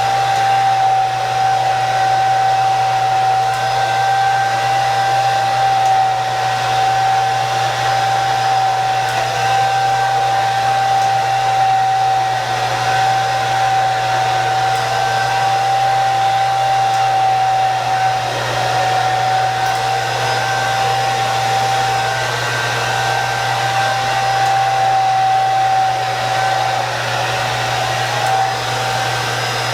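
Handheld hair dryer running continuously as it blow-dries hair: a steady rush of air with a constant whine on top.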